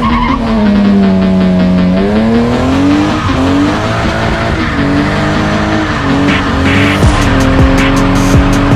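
A car engine revving hard, its pitch climbing, dropping and climbing again before holding steadier near the end, with tire squeal as the car is driven hard.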